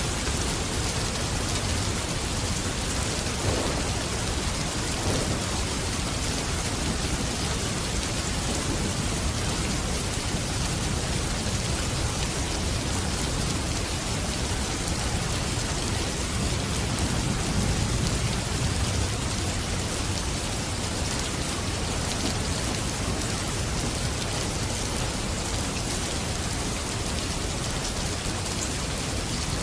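Steady rain falling, an even hiss, with a low thunder rumble swelling briefly a little past the middle.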